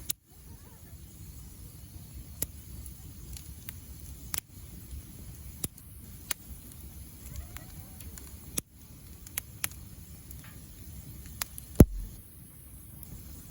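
Wood fire burning with a low steady rumble and scattered sharp crackles and pops, one pop near the end louder than the rest.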